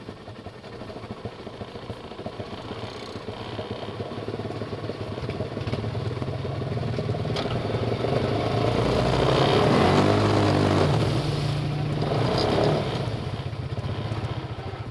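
ATV engine revving up under load as it pulls a stuck side-by-side out of a creek, building steadily and rising in pitch to its loudest about ten to twelve seconds in, then easing off.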